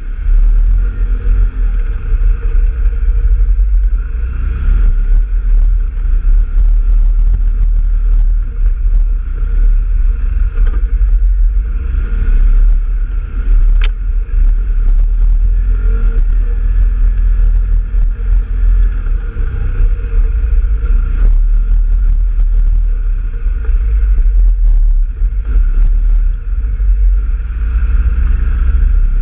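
Off-road vehicle engine running steadily while riding a trail, with heavy low rumble and wind buffeting the microphone.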